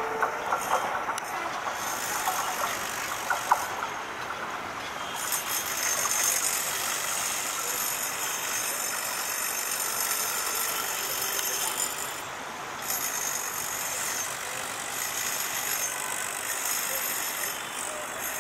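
A passenger train's coaches clacking over the rail joints as it pulls away, the clicks dying out after about three seconds. A steady noise of the train running on into the distance follows.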